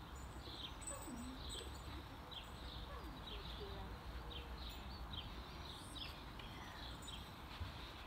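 A bird chirping over and over in short down-slurred notes, about one or two a second, over a low steady background rumble.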